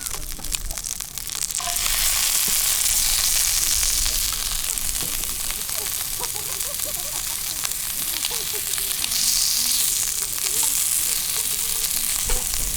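Food sizzling and frying over a campfire, with small pops and crackles. The sizzle swells about two seconds in and then holds steady.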